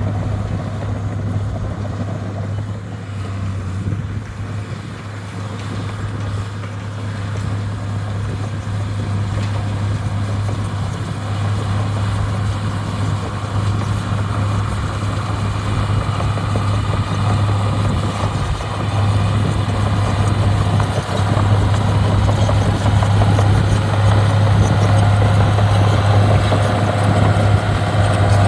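Heavy diesel engine of landfill earthmoving equipment running steadily with a deep, constant hum, growing louder over the second half.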